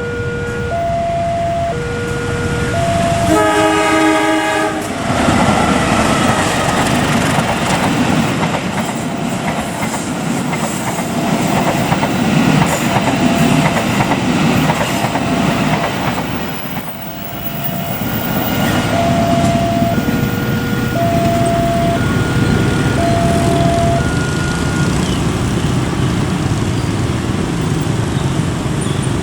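A train passing over a level crossing. A two-tone crossing alarm alternates between a low and a high note about once a second. The locomotive's horn sounds once for about a second and a half, a few seconds in. The heavy rumble and wheel clatter of the passing train follow, with the alarm still sounding through them.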